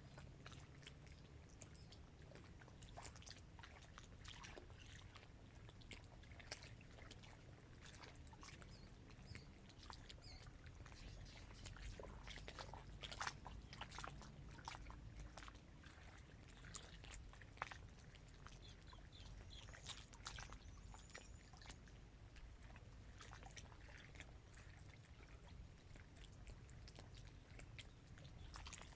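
Small waves lapping against the edge of a dam reservoir, faint irregular little splashes and clicks over a low rumble.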